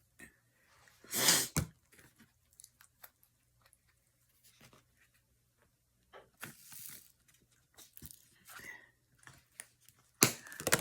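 A dog gnawing on a thick pork chop bone: irregular crunches and tearing, scraping chews, loudest about a second in and again around six seconds.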